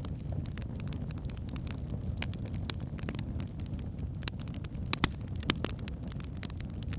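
Wood fire burning in a fireplace: a steady low rumble with frequent sharp crackles and pops, the loudest two pops about five and five and a half seconds in.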